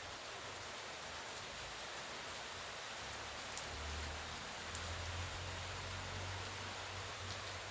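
Steady rain falling, an even hiss with a few scattered drop ticks. A low rumble comes and goes under it from about halfway through.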